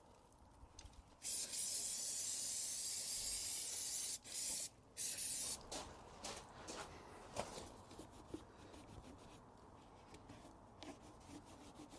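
Hose spraying water into a motorcycle airbox in a steady hiss lasting about three seconds, then a short second burst. After that come small scattered trickling and dripping sounds as the water drains out.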